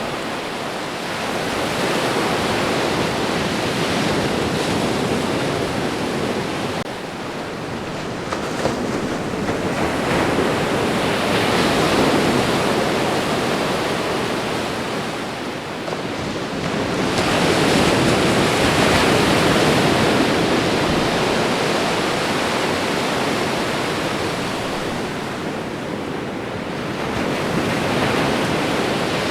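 Ocean waves washing onto a shore: a continuous rush of surf that swells and eases back about four times, every several seconds.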